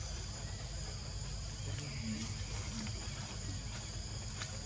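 Insects droning steadily at a high pitch, over a constant low rumble of background noise.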